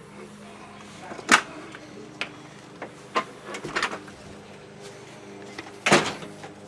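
A handful of sharp knocks and clicks, like something being handled or a door or latch being worked, over a steady low hum. The loudest knocks come about a second in and again near the end.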